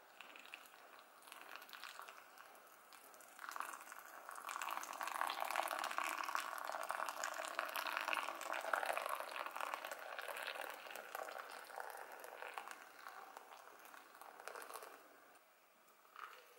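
Hot water poured in a thin stream from a kettle onto coffee grounds in a paper filter in a pour-over dripper, a steady splashing trickle. It grows louder a few seconds in and eases off near the end.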